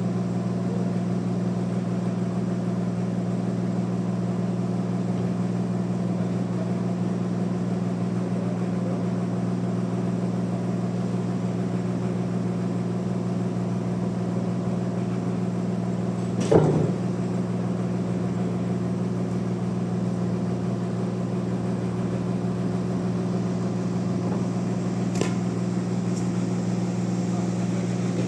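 Bandsaw mill running with a steady low hum, broken by one sharp knock about halfway through and a lighter one near the end.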